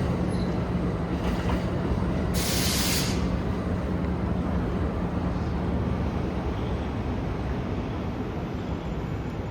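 Train running through a station: a steady rumble with a low hum that fades out about six and a half seconds in, and a short burst of hiss about two and a half seconds in.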